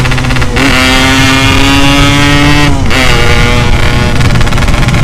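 Yamaha RX-King two-stroke single-cylinder engine through an aftermarket 'setengah dewa' exhaust, accelerating hard: the revs climb, drop briefly at a gear change about half a second in, climb again, and drop at a second shift just before three seconds. The exhaust note is loud.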